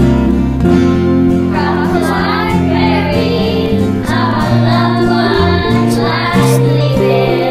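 School children's choir singing over an instrumental backing. The accompaniment plays alone at first, and the voices come in about a second and a half in.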